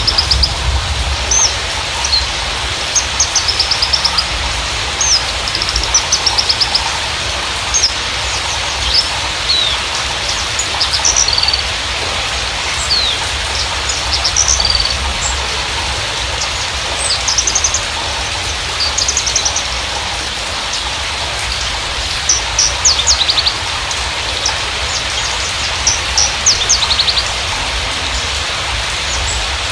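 Javan bushlark (Mirafra javanica parva) singing: clusters of quick, high chirps and short downward sweeps, repeated every second or two with brief pauses, over a steady hiss of background noise.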